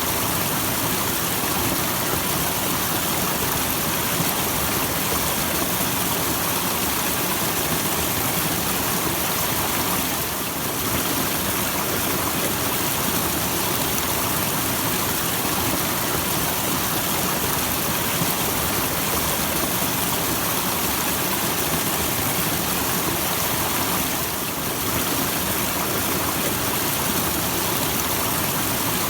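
Small waterfall splashing steadily: an even, continuous rush of falling water that softens slightly twice, briefly.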